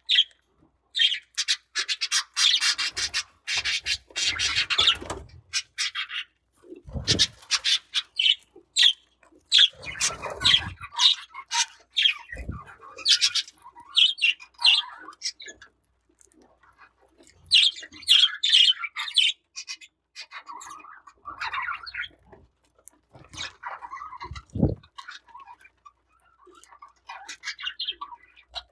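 Budgerigars chirping and squawking in quick, short calls that come and go in bursts with brief pauses, with a few dull low thuds in between.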